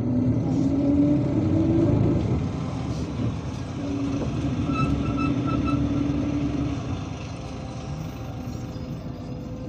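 MAZ-257 bus engine pulling under acceleration, its pitch rising for about two seconds, then dropping at a gear change and running steady. A short quick run of electronic beeps sounds about five seconds in, and the engine eases off near the end.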